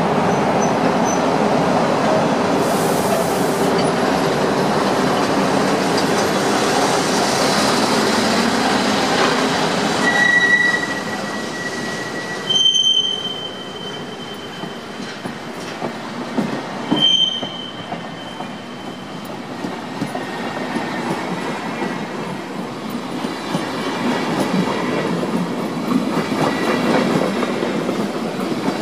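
Two SBB Re 4/4 II electric locomotives pulling a passenger train out past the platform, followed by the double-deck coaches rolling by with a steady rumble and wheel clatter. Short, high wheel squeals ring out about ten, twelve and a half and seventeen seconds in; the train is loudest during the first ten seconds, as the locomotives pass.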